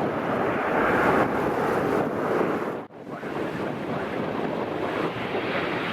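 Steady rushing roar of jet aircraft engines, mixed with wind buffeting the microphone. The sound cuts out for an instant about halfway through, then carries on the same.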